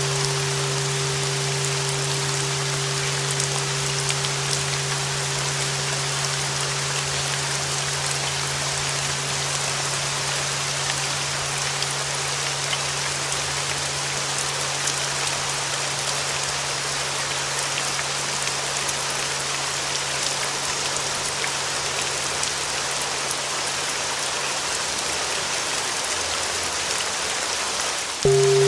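Steady rain noise with the long ringing tone of a flat bell tuned to 396 Hz slowly fading away under it. A fresh bell strike rings out near the end.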